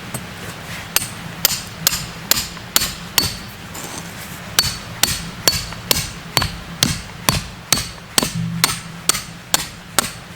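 Hammer blows striking metal in a steady run, about two a second with a short pause near the start, each blow leaving a brief metallic ring.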